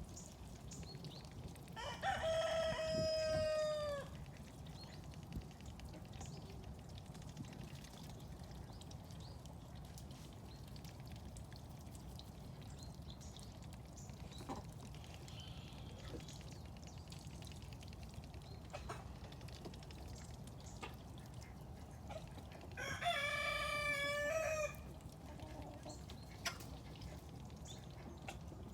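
A rooster crowing twice, each crow about two seconds long and ending with a drop in pitch, the two crows some twenty seconds apart, over a steady low background rumble.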